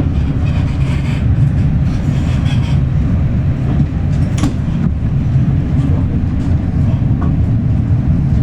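Heritage railway train with a loud, steady low rumble and a few sharp clicks.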